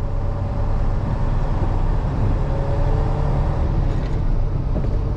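Truck's engine and road noise heard from inside the cab while driving: a steady low rumble with a faint constant hum over it.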